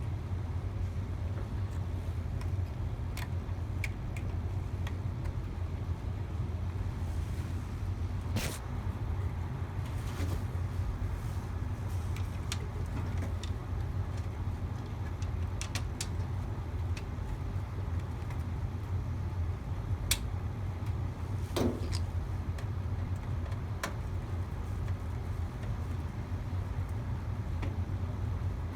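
A steady low machine hum with scattered light clicks and taps over it.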